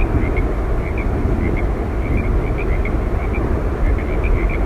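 Yosemite Falls rushing steadily, a dense unbroken roar of falling water heaviest in the low end, with short high chirps scattered through it.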